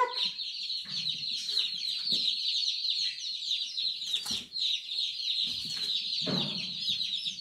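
A brood of newly hatched baby chicks peeping together in a continuous, dense chorus of high, short cheeps. A few low bumps and knocks sound in between.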